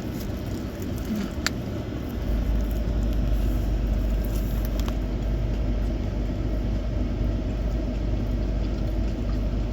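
Steady low rumble of a motor vehicle, growing stronger about two seconds in, with one sharp click about a second and a half in.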